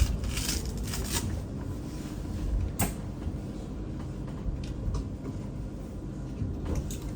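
Inside a BYD B12 electric bus: a low rumble with knocks and rattles, a few hissy clicks in the first second and a sharp click a little before three seconds in.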